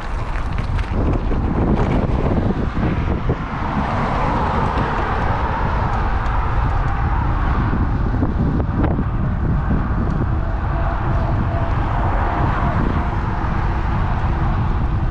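Wind rushing over a GoPro's microphone on a moving electric bike, with road traffic running alongside and a broad swell of vehicle noise through the middle.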